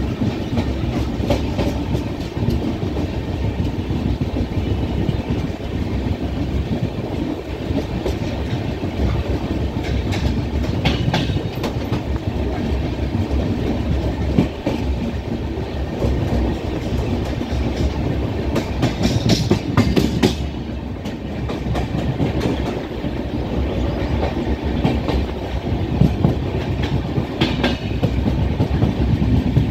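Train running along the track, heard from on board: a steady rumble of the wheels on the rails, with clickety-clack clattering breaking through three times.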